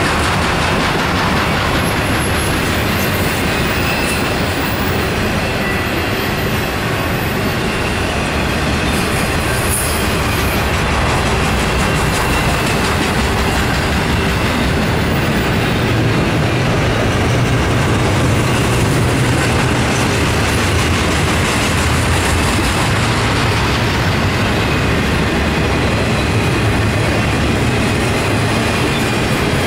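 Intermodal freight train's double-stack container well cars rolling past at speed: a steady, loud rumble of steel wheels on the rails.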